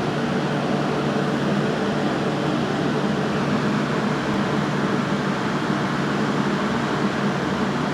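A steady, even hum with a hiss over it, unbroken throughout.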